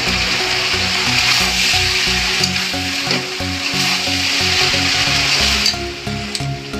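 Rice and stir-fried vegetables sizzling in a hot metal kadai as a spatula stirs them. The sizzle falls away about six seconds in, and a few sharp clinks of the spatula against the pan follow.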